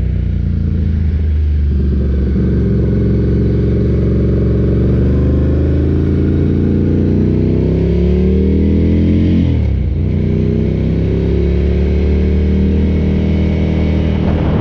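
Ducati motorcycle engine under way, its pitch climbing steadily for several seconds as it accelerates, dropping sharply about two-thirds of the way through, then climbing again.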